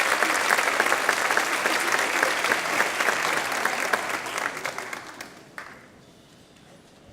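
Audience applauding, a steady patter of many hands clapping that dies away about five seconds in.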